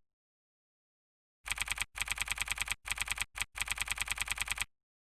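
Computer keyboard typing: rapid, evenly spaced keystroke clicks in short runs, starting about a second and a half in and stopping just before the end.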